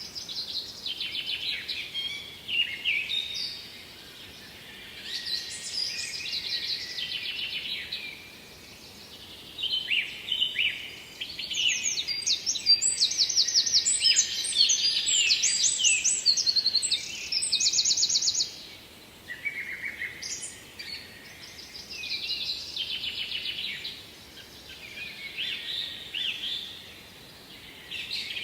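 Songbirds singing: a run of twittering, fast-trilling phrases separated by short pauses, loudest and longest around the middle, over a faint steady background noise.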